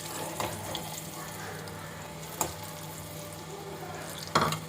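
Garlic cloves and turmeric frying in hot mustard oil in a small pan, a steady soft sizzle. A few light clicks and scrapes of the stirring spoon come through it, the loudest near the end.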